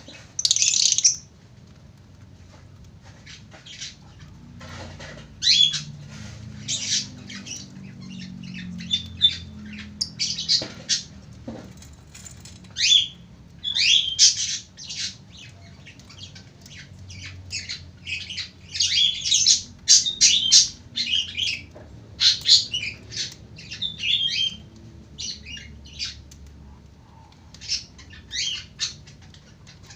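Lovebird chattering in its long 'ngekek' song: runs of short, shrill, high-pitched notes in clusters with brief pauses, opening with a loud harsh squawk about half a second in.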